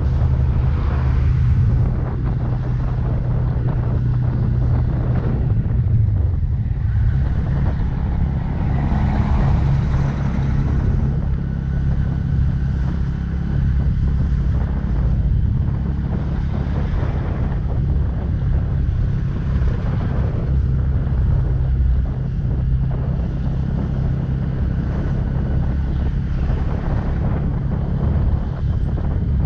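Bajaj Pulsar N160's single-cylinder engine running steadily while riding, with wind noise on the microphone. The engine note shifts about six seconds in.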